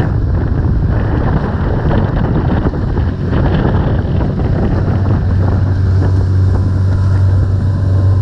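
A boat's engine running steadily, a low hum that grows stronger about five seconds in, with wind buffeting the microphone.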